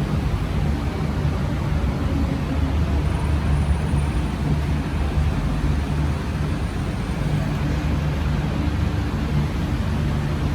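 MTR Kwun Tong Line metro train running into a station platform: a steady low rumble with a faint high whine a few seconds in.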